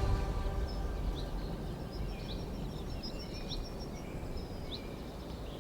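Outdoor ambience: a small bird giving short high chirps about once a second over a low, steady rumble, with a faint rapid high trill in the first few seconds. The tail of background music fades out at the start.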